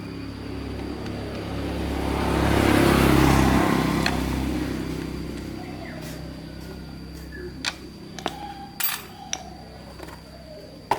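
A passing vehicle, its noise swelling to a peak about three seconds in and then fading away, followed by several sharp clicks and knocks in the second half.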